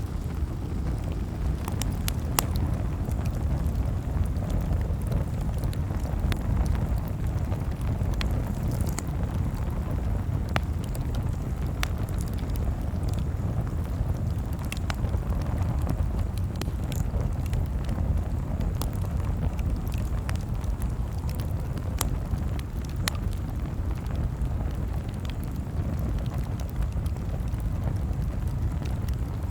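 Campfire crackling, with scattered sharp pops every second or two over a steady low rumble.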